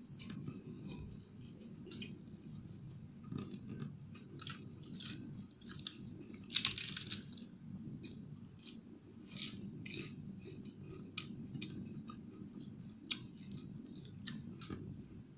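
Close-up chewing of fried fish, wet mouth noises with many small clicks and crunches as the crisp skin is eaten, and a brief louder crackle about halfway through.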